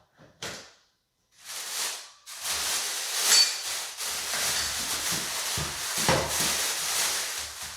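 Rustling handling noise that runs on unevenly for about five seconds, with a sharper click about three seconds in. A brief click and a short pause come before it.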